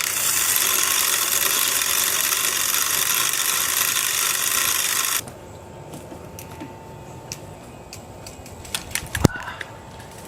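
A steady spray of water rinsing a bicycle chain clean of degreaser, stopping abruptly about five seconds in. It is followed by scattered light metallic clicks and one sharp knock near the end.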